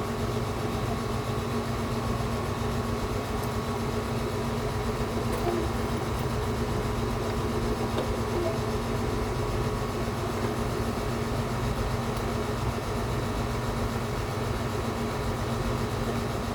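Steady machine hum with a few constant tones and a low rumble underneath, unbroken and even throughout.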